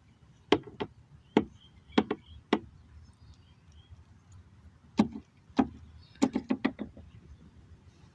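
Bantam chicken pecking at a cracked egg, its beak striking the shell and the hard surface beneath in sharp taps. The taps come singly or in pairs at first, then in a quick run of six or seven near the end.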